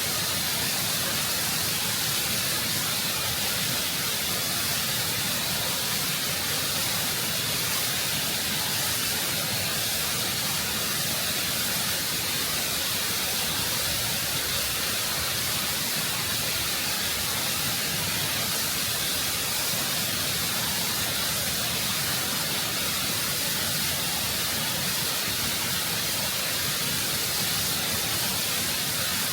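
Waterfall rushing over rock, heard close up: a steady, full roar of falling water without a break.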